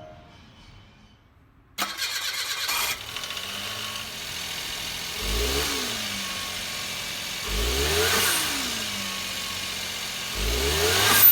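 Suzuki Jimny JB23's three-cylinder turbo engine cranking and starting about two seconds in, then running and revved up and back down three times.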